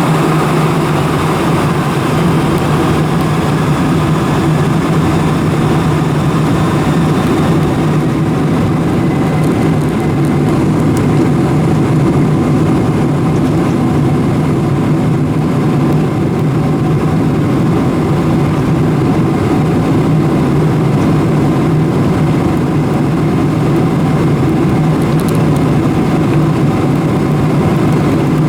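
Boeing 747-400 airliner heard from inside the passenger cabin: a loud, steady low hum with a rushing hiss from the engines and airframe, unchanging throughout.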